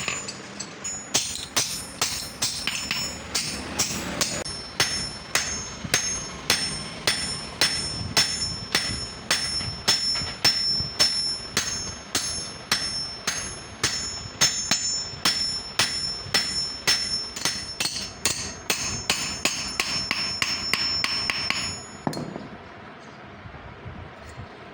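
Hammer blows on steel on an anvil, about two strikes a second, each with a high metallic ring. The strikes stop near the end, leaving a low steady noise.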